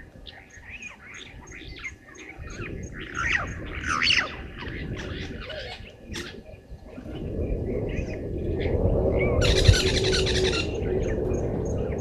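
Wild birds calling from the trees with a run of short chirps and whistles, some rising and some falling, busiest in the first half. About seven seconds in, a low rushing noise builds up, with a loud hiss at its peak a little before the end. A faint high ticking goes on throughout, about three ticks a second.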